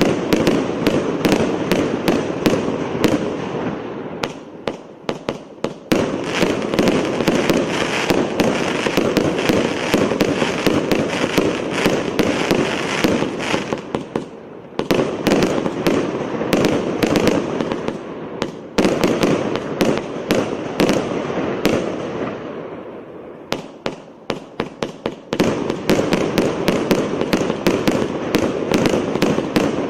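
A 600-shot, 1-inch-calibre firework cake firing: shots follow so fast they blur together. Three times, about 5, 14 and 24 seconds in, the barrage thins to a handful of separate sharp bangs before picking up again.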